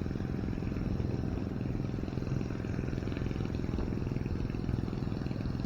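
An engine running steadily at a low, even idle.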